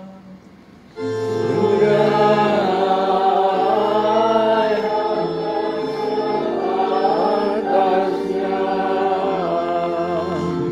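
Choir and congregation singing the sung response of the Mass preface dialogue, with sustained accompanying chords beneath; the singing comes in about a second in.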